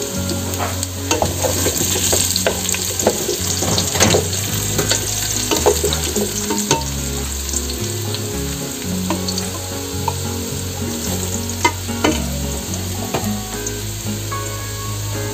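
Carrot and potato chunks sizzling as they fry in oil in a pot, with a steady hiss. They are stirred with a wooden slotted spatula, which gives frequent short scrapes and knocks against the pot.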